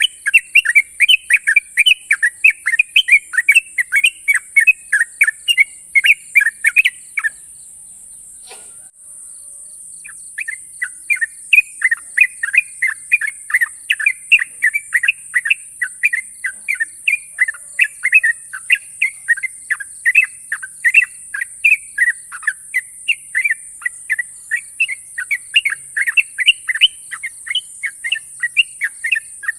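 Yellow-vented bulbul (trucukan) singing a long, fast run of sharp repeated chirping notes, about four a second. It pauses for a few seconds about a quarter of the way in, then sings again. A steady high hiss runs underneath.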